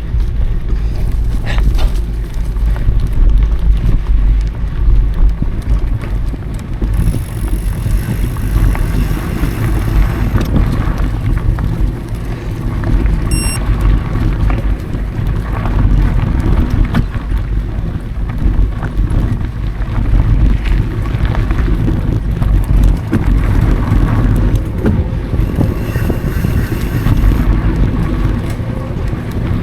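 Mountain bike rolling over dry dirt singletrack: a steady rumble of wind on the action camera's microphone and tyres on the trail, with frequent small rattles and knocks from the bike over bumps. A brief high squeak about halfway through.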